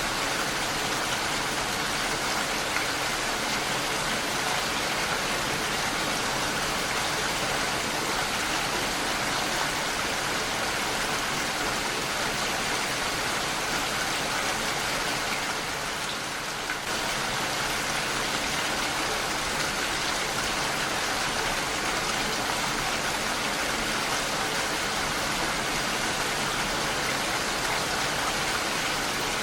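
Heavy rain falling steadily against window glass, a dense even hiss of drops. The level dips slightly for a moment about sixteen seconds in.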